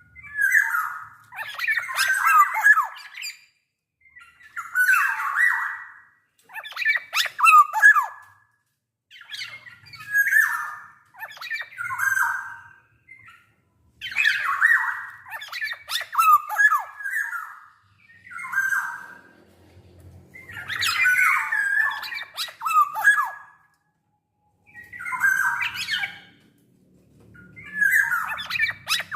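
Black-naped oriole calling in repeated phrases every two to three seconds, each a rough, scratchy call mixed with short gliding whistled notes.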